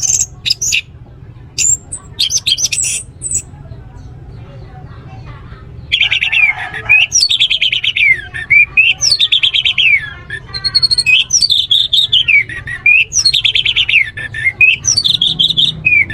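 Orange-headed thrush singing: a few short, high calls at first, a brief pause, then from about six seconds a loud, unbroken run of varied phrases with rapid trills and falling sweeps. A steady low hum lies underneath.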